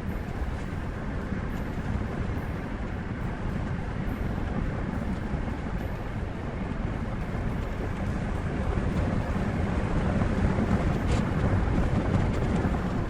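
Steady low rumble of a heavy vehicle on the move, growing a little louder in the second half.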